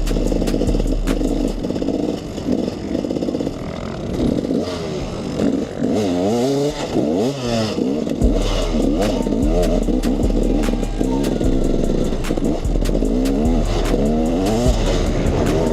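KTM 300 EXC two-stroke dirt bike engine being ridden, revving up and down over and over, with the sharpest rises and drops in pitch about halfway through.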